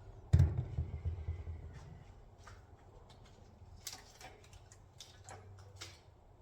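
Hand-tool work on an engine: a loud thud just after the start, with a low rumble dying away over a second or so, then a few light metallic clicks and clinks.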